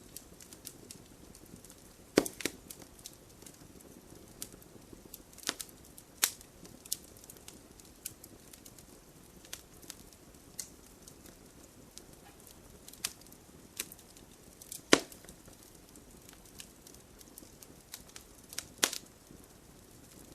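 Wood fire burning in a fireplace, crackling over a faint hiss, with scattered sharp pops from the logs, the loudest about two seconds in, near the middle and near the end.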